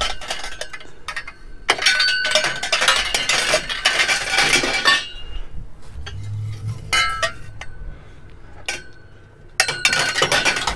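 Steel tubes clanking and ringing against one another as they are handled and loaded as scrap, a run of metallic knocks that eases off after about eight seconds and picks up again near the end.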